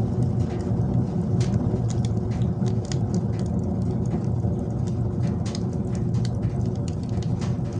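Wood fire burning in a wood stove: a steady low rumble with frequent, irregular sharp crackles and pops.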